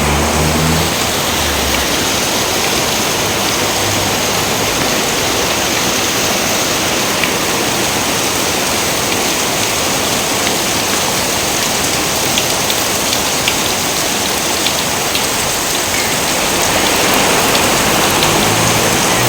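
Steady rain: a continuous dense hiss with a few separate drops ticking through it. A low rumble sits under the rain briefly at the start and again near the end.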